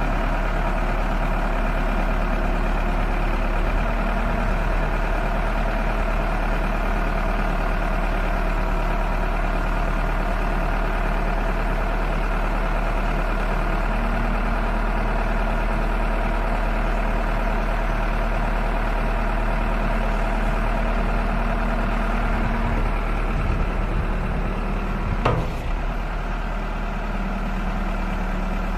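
Case 580 Super M backhoe's diesel engine running steadily, with a single sharp clank about 25 seconds in.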